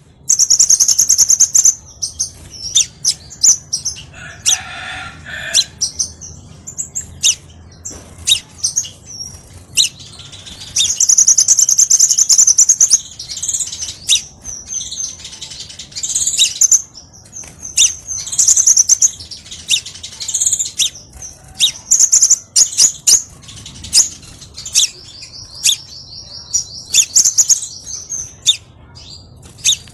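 Crimson sunbird song played as a lure: fast, high-pitched trills and sharp chips, densely repeated, with longer trills around ten seconds in and a buzzy rapid trill near the end.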